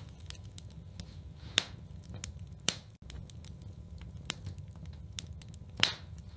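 Wood fire in a fireplace crackling, with irregular sharp pops, three of them louder than the rest, the loudest about a second before the end, over a low steady rumble.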